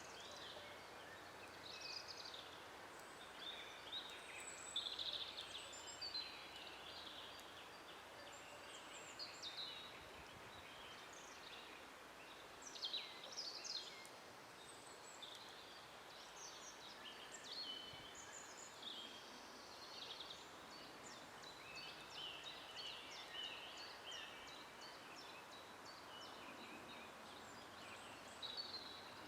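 Several songbirds singing and calling together: many short whistled phrases and chirps, overlapping and scattered throughout, over a soft steady hiss of background noise.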